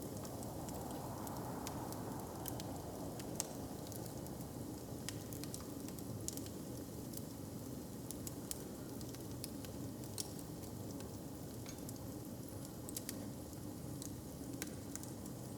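A fire crackling, with irregular sharp pops several times a second over a steady low background rumble.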